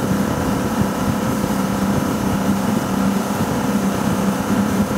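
Ski boat's inboard engine running steadily under way, heard from on board, with a constant hum over the rush of water and wind.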